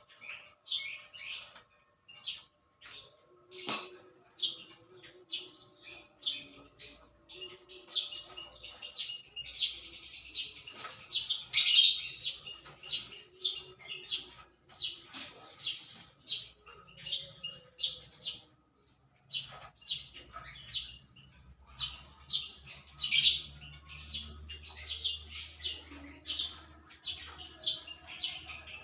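Small birds chirping in quick runs of short, high calls, several a second, with brief pauses between runs and the loudest calls about twelve seconds in and again near the end.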